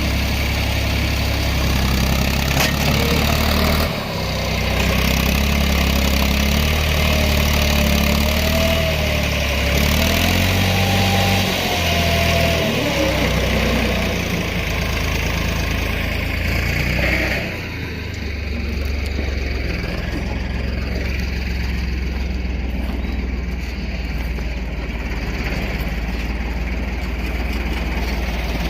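Tractor engine running steadily under a loader. A faint whine rises and falls in the middle, and a little past halfway the sound drops and turns duller.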